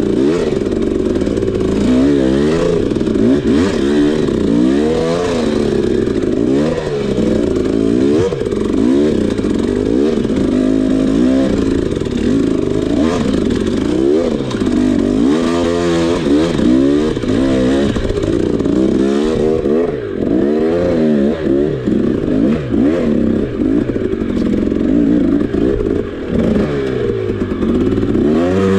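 Dirt bike engine being ridden hard, its pitch rising and falling again and again every second or two as the throttle opens and closes and the gears change.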